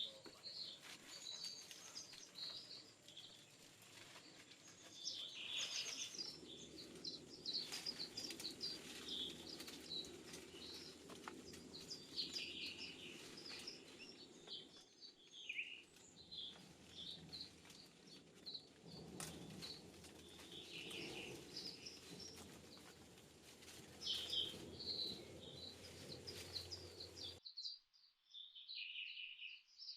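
Many forest birds chirping and calling in short, high notes, with scattered light clicks over a low background noise. Near the end the background noise drops away suddenly and only the bird calls remain.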